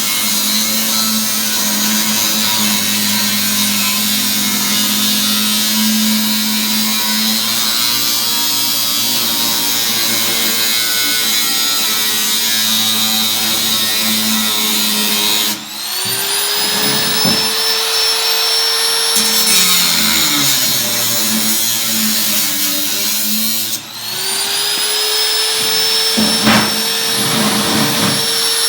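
Handheld electric power tool running on sheet steel, its motor whining steadily under load; twice, about halfway through and again near the end, it briefly drops off and then spins back up with a rising whine.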